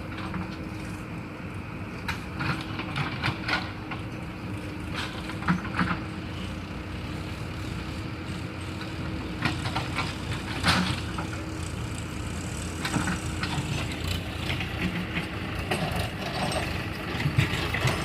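A heavy vehicle's engine running steadily with a constant hum. Short knocks and clanks come and go over it.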